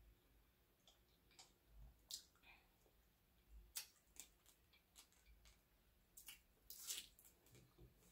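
Faint eating sounds: wet lip smacks and chewing of shrimp eaten by hand, with scattered short sharp clicks, a small cluster of them about six to seven seconds in.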